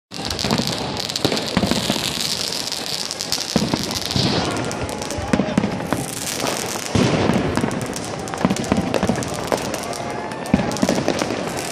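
Dense New Year's Eve street fireworks: firecrackers and rockets banging irregularly, near and far, over a continuous crackle, with a high hiss during the first four seconds.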